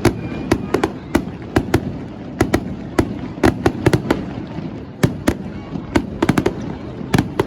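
Fireworks display: a rapid, irregular series of sharp bangs and cracks, several a second, over a low rumble.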